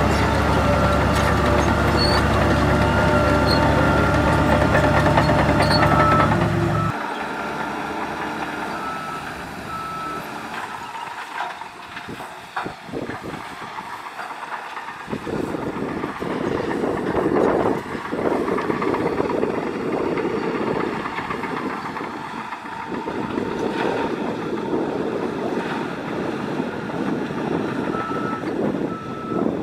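Heavy diesel earthmoving machinery running with a reversing alarm beeping over it. A deep, loud engine sound stops abruptly about seven seconds in, after which a lighter, noisier machine sound continues and the beeping returns near the end.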